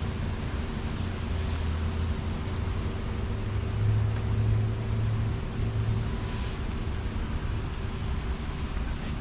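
Car engine running with road noise, a steady low hum that grows louder and slightly higher for a couple of seconds in the middle.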